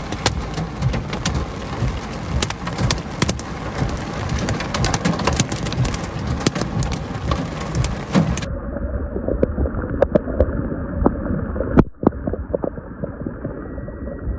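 Heavy rain falling, a dense steady patter dotted with many sharp drop hits. About two thirds of the way through, the sound turns abruptly muffled and thinner.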